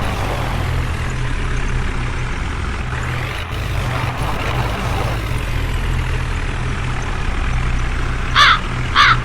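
Heavy diesel engine running steadily with a low rumble, from the tractors or backhoe loader at work. Near the end, two short, loud, warbling electronic 'boing' sound effects cut in over it.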